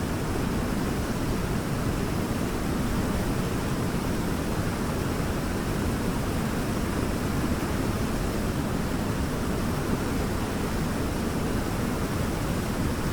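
Waterfall: a steady, deep rush of falling water, even and unbroken.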